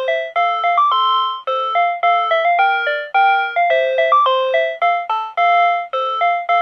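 PATLITE electronic annunciator at a railway platform playing its signal-clearance melody, a loop of quick electronic notes that repeats about every three seconds. It tells the crew of a one-man train that the starting signal has cleared, and it keeps sounding for as long as the signal shows clear.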